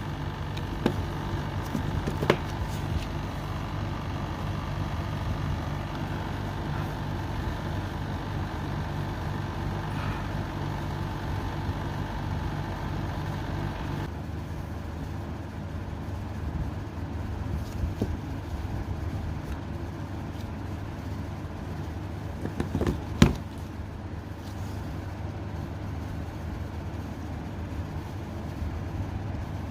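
Steady low background hum with a few short clicks.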